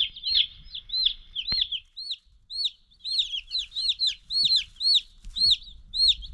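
Several day-old meat chicks peeping: a steady run of short, high, arched peeps, about three a second, with a brief lull about two seconds in.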